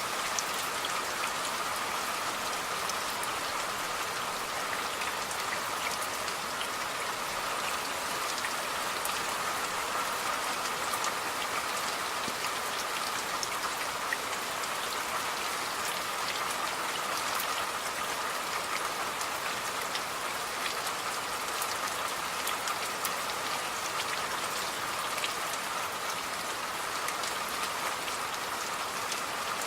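Steady rain falling, a constant hiss with scattered fine drop ticks.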